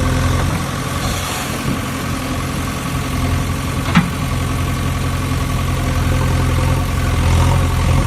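A steady running engine or motor hum, even in pitch throughout, with a single sharp click about four seconds in.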